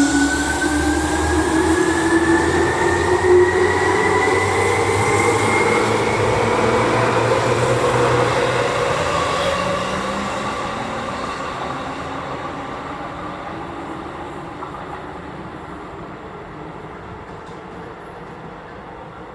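Seibu 2000 series electric train accelerating, its traction motors giving a whine that climbs steadily in pitch for about eight seconds over a rumble of wheels on rails. The sound then fades gradually as the train pulls away.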